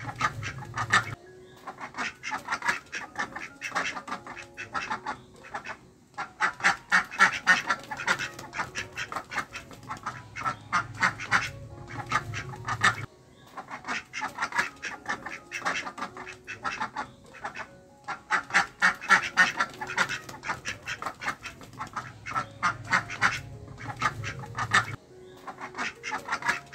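Several ducks quacking in rapid flurries that swell and fade about every four seconds.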